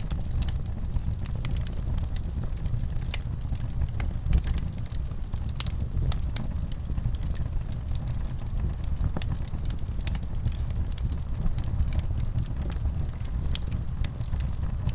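Wood fire crackling steadily, with a continuous low rumble of burning and frequent sharp pops and snaps scattered irregularly throughout.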